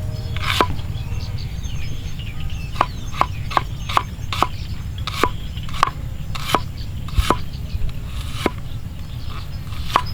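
About a dozen sharp knocks, like a knife chopping on a wooden board, irregularly spaced and briefly about two a second, over a steady low rumble.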